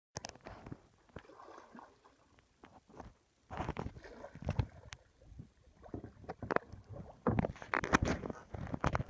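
Kayak paddle strokes dipping and splashing in the water, in irregular surges that grow louder past the middle and again near the end.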